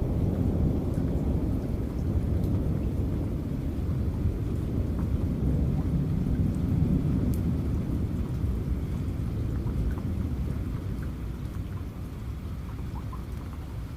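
Rolling thunder rumbling low and gradually fading away, over rain with scattered drops falling.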